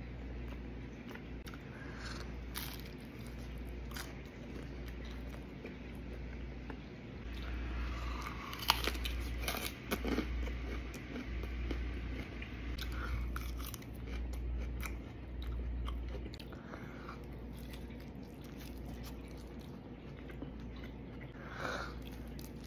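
Close-up mouth sounds of someone biting and chewing pizza and Caesar salad: crunching of crust and leaves, wet chewing and small clicks, busiest in the middle, with one sharp crunch about nine seconds in as the loudest moment.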